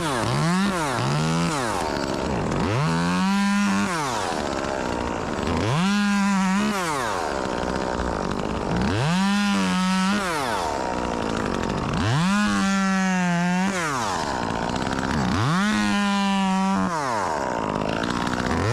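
Chainsaw revving in repeated bursts: several quick blips at the start, then about five longer runs where the engine climbs to full speed, holds there for a second or so, and drops back to idle, as when cutting branches into small pieces.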